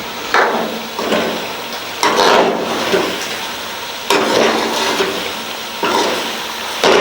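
Chicken in tomato masala frying in ghee in a karahi, sizzling while it is stirred and turned, with a swishing scrape at each stroke every second or two as the spices are roasted into the chicken.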